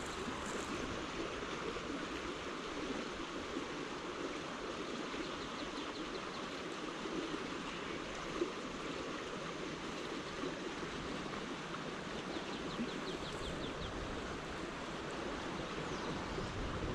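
Small urban stream flowing steadily, an even rush of water. A faint quick series of short ticks comes twice, about five and about thirteen seconds in.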